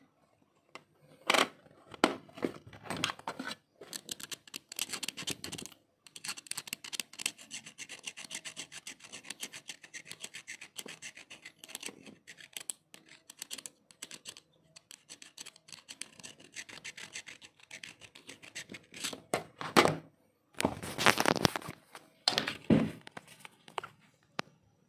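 Hands working on an Asus A456U laptop's plastic casing during a battery replacement: scratching and rubbing with many small rapid clicks, and louder scraping handling noises about a second in and again near the end.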